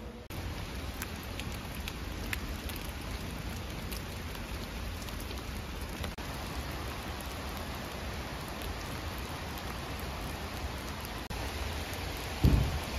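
Steady rain falling, with scattered drips ticking through it. A brief low thump near the end.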